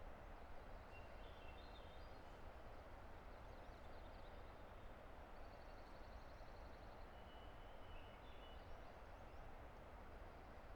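Steady, faint rush of a distant river, with faint birdsong over it: a few short high songs early on, a rapid trill in the middle, and more short phrases near the end.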